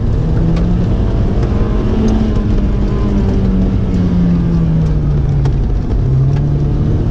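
Kia Sportage's engine running hard inside the cabin on a rough dirt track, its note climbing, easing off, dropping briefly near the end and then climbing again as the driver works the throttle. Scattered sharp knocks and clicks are heard over it.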